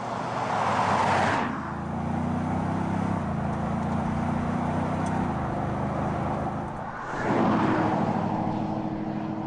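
Audi SQ7 V8 SUV passing close by at speed about a second in. This is followed by a steady engine and exhaust drone whose pitch drops in two steps, then another pass-by near the end.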